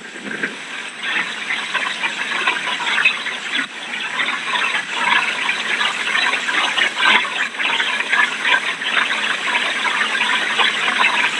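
Heavy hurricane rain pouring down: a steady rush of water with a dense crackle of spatter.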